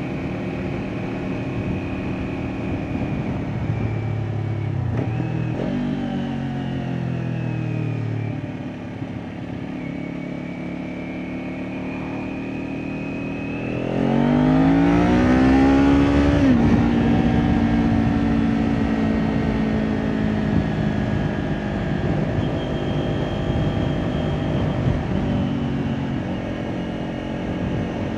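Kawasaki Ninja 400's parallel-twin engine through an Akrapovic exhaust, under way. Its pitch rises and falls, then eases off before halfway. About halfway through it accelerates, rising in pitch and growing louder, drops in pitch at an upshift, and settles into steady cruising.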